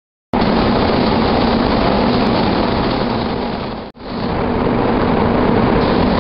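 Steady loud rushing air noise from spray-painting equipment. It fades out briefly about four seconds in and then comes back.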